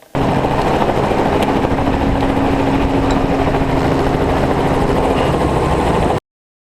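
Helicopter in flight, its rotor and engine making a steady, loud noise with a low hum, which cuts off suddenly about six seconds in.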